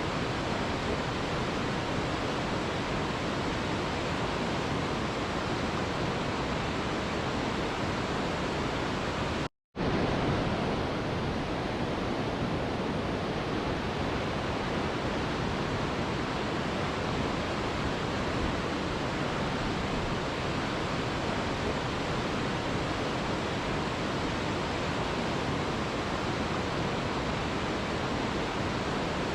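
Mountain river water rushing steadily, with a brief break to silence about ten seconds in.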